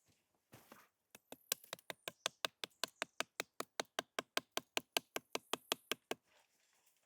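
A fast, even run of sharp knocks, about five a second, lasting about five seconds and stopping near the end.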